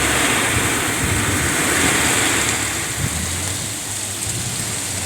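Storm wind gusting hard with rain, a steady loud rush with a low rumble of wind buffeting the microphone.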